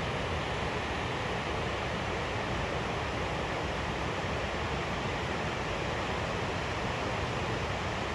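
Steady, unbroken rushing noise with no distinct events.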